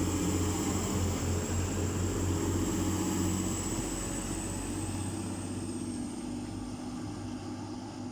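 Class 185 diesel multiple unit, two units coupled, pulling away under power: a steady low engine drone with a thin high whine that slowly rises in pitch, fading as the train draws off.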